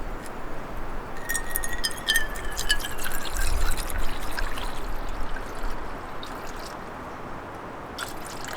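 Liquid pouring and trickling, with scattered sharp clicks; the pour sounds loudest in the first half.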